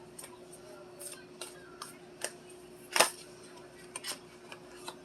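Irregular light clicks and taps of tarot cards being handled and laid down, with a sharper snap about three seconds in, over a faint steady hum.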